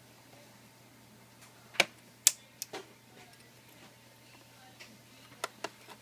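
Sharp, irregular clicks and snaps of a plastic prying tool working the hidden plastic clips of a Samsung NP700Z7C laptop's screen housing loose, the two loudest close together about two seconds in, more a few seconds later.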